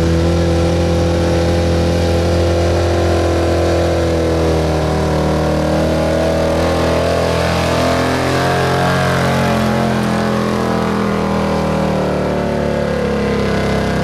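1977 Ford F-350's stock gasoline engine running hard at high revs during a truck pull, the pitch dipping a little midway through.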